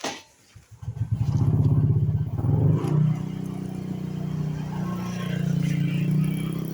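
Motorcycle engine starting: a click, a brief crank, then it catches about a second in and runs loudly. From about three seconds in it settles to a steady, quieter idle.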